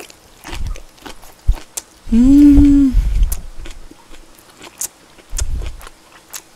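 Close-miked chewing of aged kimchi (mugeunji) wrapped with duck barbecue: crisp crunches and wet mouth clicks. About two seconds in there is a loud closed-mouth "mmm" hum of relish lasting under a second.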